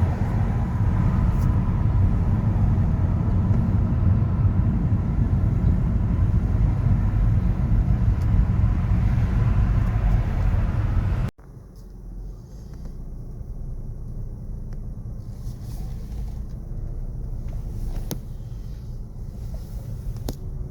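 City street traffic: a steady, dense rumble of passing vehicles. About eleven seconds in it cuts suddenly to a quieter, lower traffic rumble with a few faint clicks.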